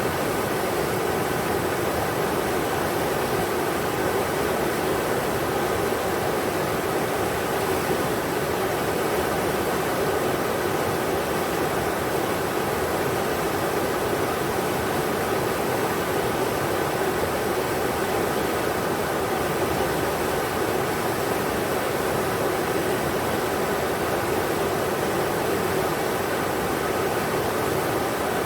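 River water rushing over rocks, a steady, unbroken rush that is strongest in the middle range.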